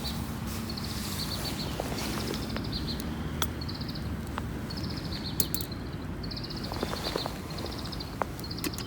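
A bird calls a short, rattling trill over and over, about once a second. A few sharp crackles, likely from the campfire, fall between the calls over a steady low rumble.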